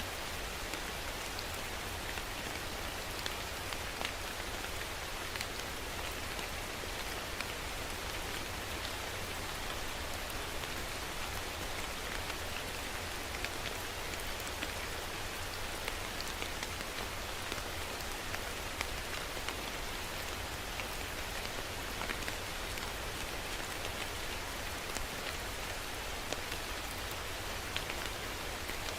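Steady rain falling: an even hiss of rain with many scattered sharper drop ticks.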